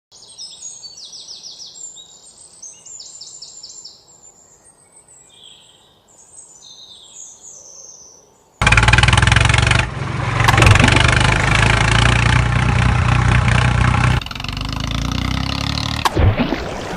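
Birds chirping in short repeated calls for the first half. About halfway through, a loud, steady low rumble with a hiss cuts in abruptly, changing in tone about three seconds before the end.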